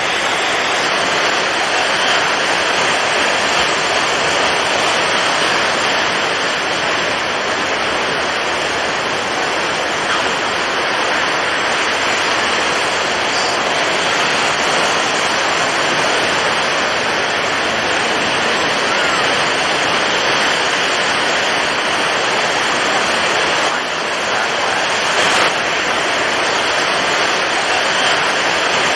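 Storm at sea: strong wind and heavy waves blending into a loud, steady rush of noise, with one brief sharper burst near the end.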